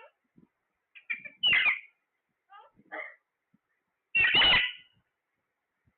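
A parrot calling: two loud, harsh calls, one about a second and a half in and one past four seconds, with softer short chirps between them.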